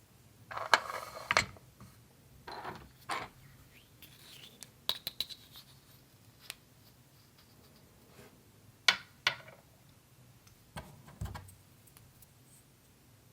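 Hands handling small toy kitchen pieces: a few brief rustles and scrapes with scattered sharp clicks.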